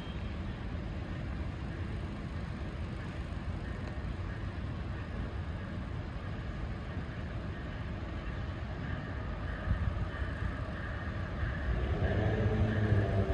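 Low steady rumble of a train approaching the station, with a high rail tone building a few seconds in; it grows louder near the end as the train draws close.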